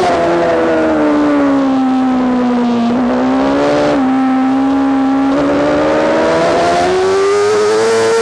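Yamaha R6's inline-four engine heard on board at track speed. The revs fall for about three seconds, with two brief steps in pitch around three and four seconds in, then climb steadily from about five and a half seconds in as the bike accelerates.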